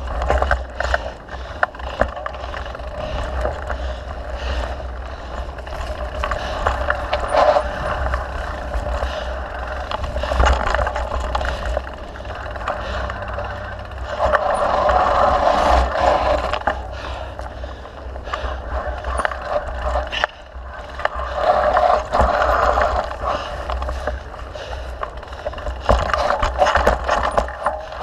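Mountain bike being ridden over a dirt trail: steady wind rumble on the camera microphone, tyre and trail noise that swells twice, and frequent rattles and knocks from the bike over bumps.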